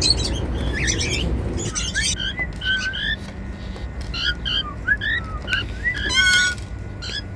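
Cockatiels chirping and whistling in a string of short calls, with a quick run of rising notes about six seconds in. A low noise sits under the calls for the first second and a half or so.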